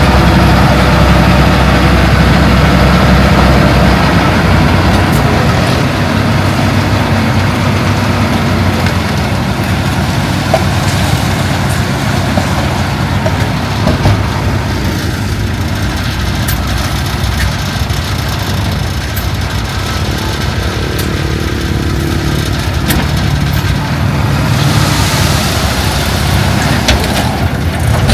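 Heavy diesel engine of earthmoving machinery running steadily and loud. About twenty-five seconds in a short hiss rises over it, and a few sharp knocks come near the end.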